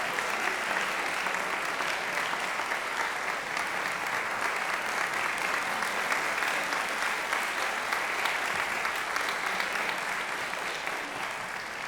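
Audience applauding, a steady dense clapping that thins out near the end.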